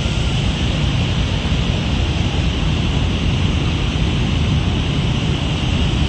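Steady roar of rushing floodwater from a cloudburst, with a heavy low rumble.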